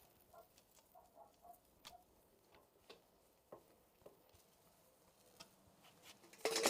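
Faint scattered light clicks and taps, then a sudden louder sound with steady ringing tones starts near the end.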